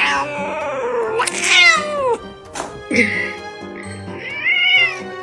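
A cat meowing about four times in long, drawn-out calls whose pitch slides down or arches, protesting having its nails clipped, over background music.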